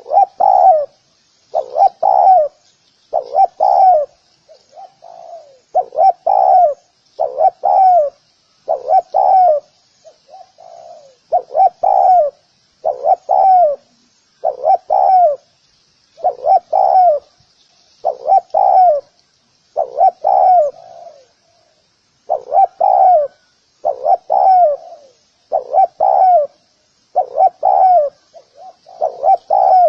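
Spotted dove cooing over and over: short low phrases of two or three downward-gliding notes, one about every second and a half with a few brief pauses. This is the bow-coo ('gù') of a spotted dove. A faint steady high hiss runs underneath.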